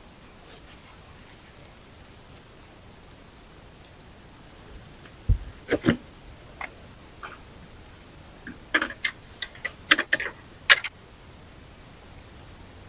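Scattered sharp clicks and light knocks in two clusters, with one dull low thump about five seconds in and a brief rustle near the start.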